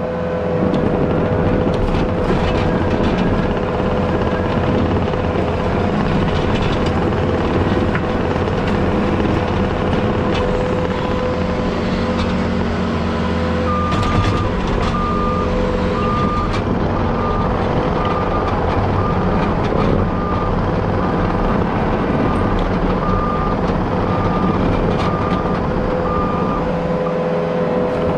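Heavy diesel earthmoving machine running steadily under work, with a back-up alarm beeping about once a second from about halfway through as it reverses.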